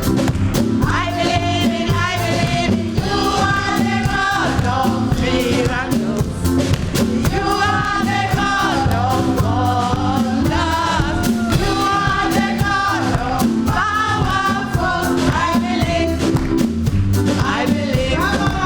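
Gospel group singing live with loud band backing and a steady beat.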